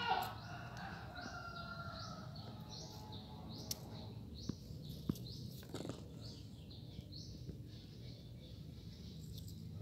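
A small bird chirping over and over, short high chirps about twice a second, with a low steady hum behind and a few soft clicks in the middle.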